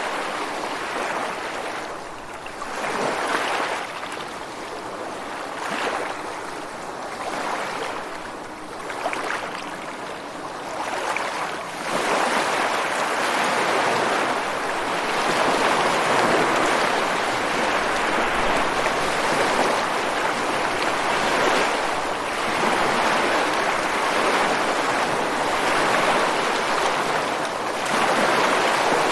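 Ocean surf washing ashore and against rocks, a continuous rushing wash that swells and falls back every couple of seconds, then grows louder and fuller about halfway through.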